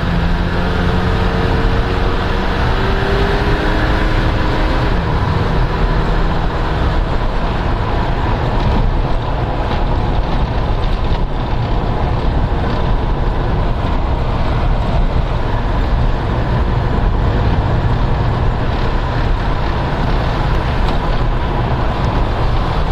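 Bedford CF2 van driving: the engine note climbs over the first few seconds as it pulls, then settles into a steady drone mixed with road and wind noise at cruising speed.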